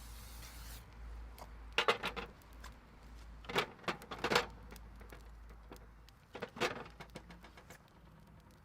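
Cast iron waffle maker and cooking tools being handled: a brief hiss at the start, then three clusters of sharp metal clinks and knocks with scattered small ticks, over a low steady rumble.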